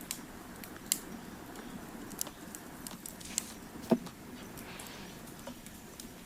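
Crackling fire: a steady low rush of burning with scattered sharp pops, the loudest about four seconds in.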